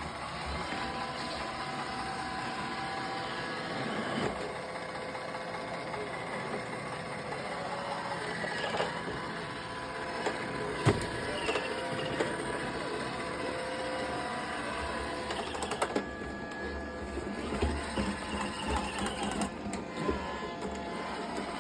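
Roomba i1 robot vacuum running: a steady motor and brush whir with a few scattered clicks and knocks, one sharper click about eleven seconds in.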